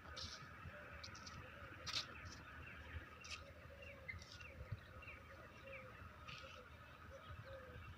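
Faint evening chorus of many small birds chirping: scattered short chirps and quick falling notes, over a steady high background chorus.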